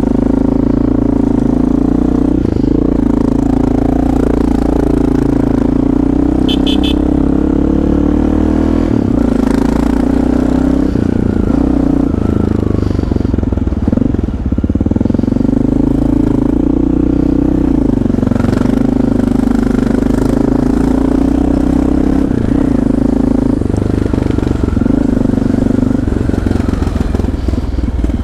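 Motorcycle engine running while riding. The note holds steady for long stretches and drops and climbs again a few times as the speed changes.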